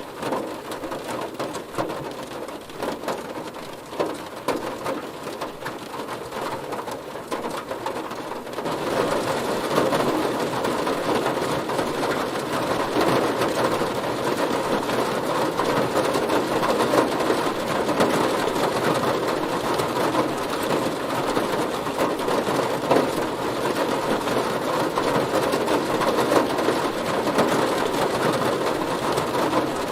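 Heavy rain drumming on a car, a dense patter of drops, growing heavier and louder about nine seconds in.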